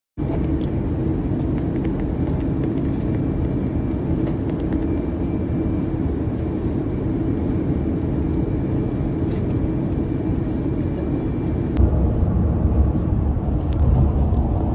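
Steady low rumble of a vehicle in motion. The sound changes abruptly about twelve seconds in, with the rumble growing slightly louder and deeper.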